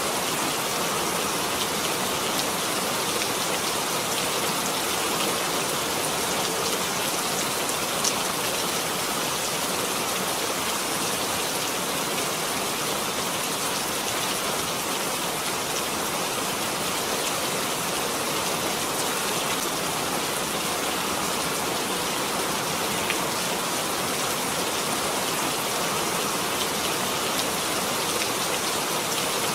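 Steady, heavy rain falling, an even hiss with no breaks.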